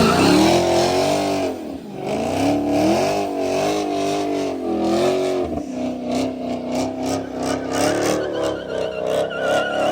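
Dodge Hellcat's supercharged V8 at high revs, engine speed swinging up and down again and again, then held steadier from about six seconds in while the tires squeal with a wavering pitch: a burnout.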